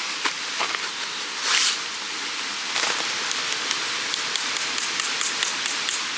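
Steady rushing of a mountain stream, with scattered small clicks and a louder brief rustle about a second and a half in.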